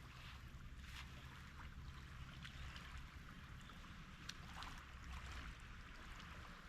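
Faint lakeside ambience: a steady low rumble of wind on the microphone and gentle water sounds, with a few small clicks, the sharpest about four seconds in.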